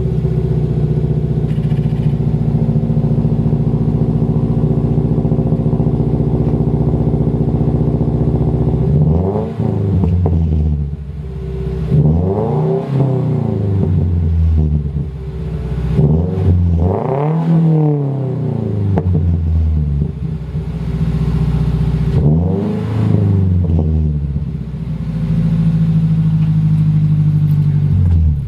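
2016 Subaru Impreza hatchback's 2.0-litre flat-four boxer engine, exhaust running through a Nameless Performance muffler delete. It idles steadily, then is revved and let fall back four times, the third rev the highest, before settling back to idle.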